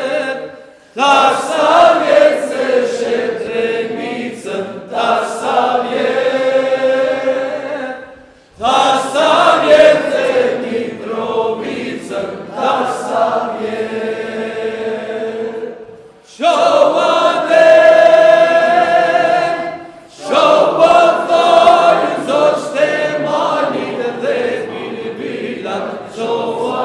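A choir singing in long phrases with held notes, pausing briefly between phrases about a second in, at about eight and a half seconds, at about sixteen seconds and at about twenty seconds.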